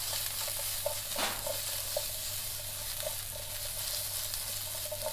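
Chicken, eggplant and green chili peppers sizzling in oil in a nonstick frying pan while the pan is shaken and tossed, with a few light knocks of the food and pan.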